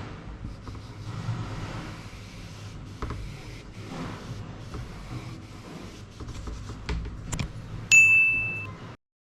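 A low, rumbling outdoor background with a few scattered knocks, then a single loud, bright bell-like ding about eight seconds in that rings and fades within a second. The sound cuts off abruptly just after.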